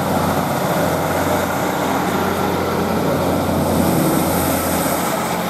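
A diesel multiple-unit train pulling out of the station, its engine running under power with a steady drone and rumble.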